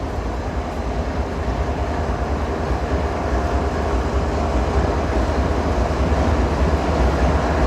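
Diesel freight locomotive engines running with a low, uneven grumbling exhaust that slowly grows louder, the lead engine coming up from idle.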